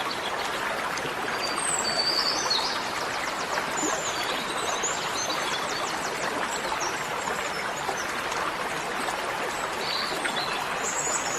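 Birds chirping and trilling in short phrases over a steady rushing noise like flowing water.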